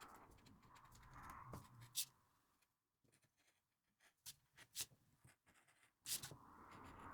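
Faint handling of paper at a work table: soft rustling and sliding near the start and again near the end, with a few light sharp clicks in between.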